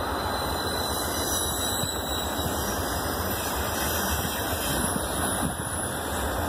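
Passenger rail cars rolling past, a steady rumble of wheels on rail with a high squeal from the wheels.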